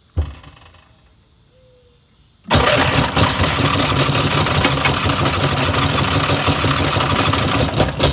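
A sharp snap at the start, then about two and a half seconds in the riding lawn mower's small engine turns over and catches, its starter jumped with wires in place of a dead solenoid and its choke held open. It runs loudly for about five seconds, then drops away near the end.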